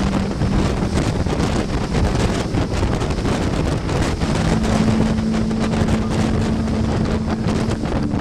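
Motorboat engine running at a steady hum under heavy wind buffeting on the microphone, with rushing water. The engine note steps up a little about halfway through.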